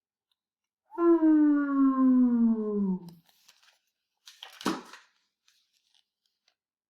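A person's voice holding one long vowel for about two seconds, its pitch sliding steadily down, followed a little later by a brief sharp noise.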